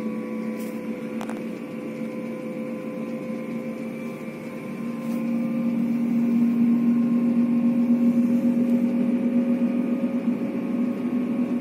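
Steady running hum of an intercity train heard inside the passenger carriage. It grows louder about five seconds in, and the pitch of the hum edges slightly upward.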